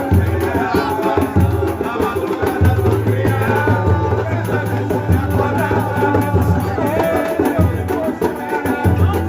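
Live samba performance: voices singing over a steady bass and rhythmic percussion.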